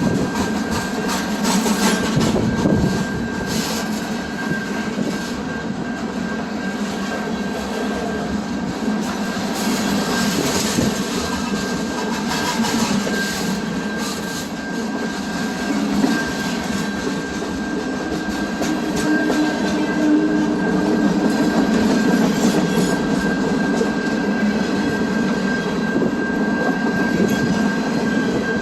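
A train rolling past on the tracks: a continuous rumble with rapid clicking of wheels over the rail, and a thin steady high whine held throughout.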